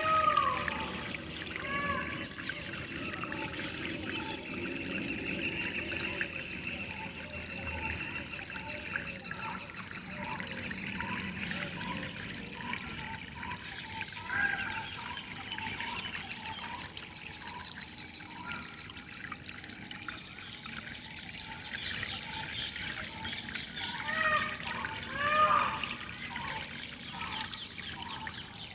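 Water trickling and flowing steadily, with birds calling over it in many short, repeated arching chirps, in a busy run in the middle and loudest a few seconds before the end.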